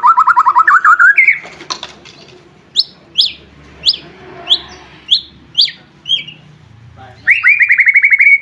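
White-rumped shama (murai batu) singing: a fast rattling trill that climbs in pitch, then a string of about seven sharp, high notes sweeping downward, roughly two a second, and another fast trill near the end.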